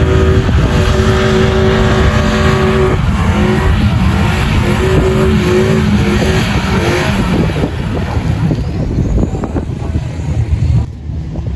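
Radio-controlled off-road truck's motor whining, its pitch stepping up and down with the throttle, over a heavy low rumble. The sound drops off sharply near the end.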